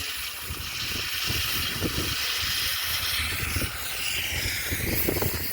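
Miniature live-steam locomotive giving off a steady hiss of steam, over a low rumble.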